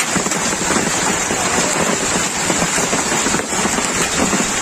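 Heavy rain mixed with hailstones pattering on surfaces, a dense, steady downpour.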